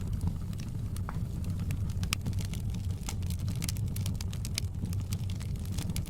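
Wood fire crackling in a fireplace: frequent sharp pops and snaps over a steady low rumble of the flames, the pops coming thicker in the second half.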